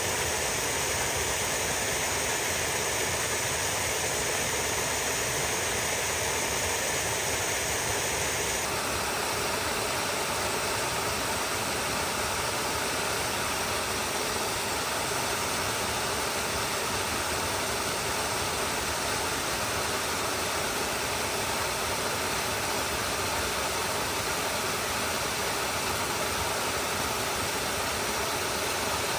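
Stream of water flowing: a steady, even rush, its tone shifting slightly about nine seconds in.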